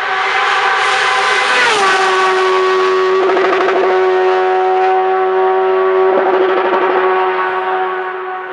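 Hillclimb race car's engine running hard at high revs as it goes by. Its pitch drops sharply about two seconds in and then holds steady before fading near the end.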